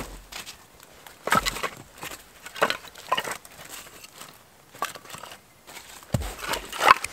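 Footsteps crunching in snow: a handful of irregular steps.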